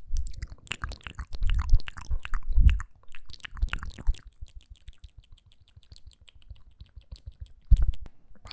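ASMR mouth sounds close to the microphone: wet lip and tongue clicks and smacks, with a fast, even run of small clicks in the middle and a couple of heavier pops near the start and end.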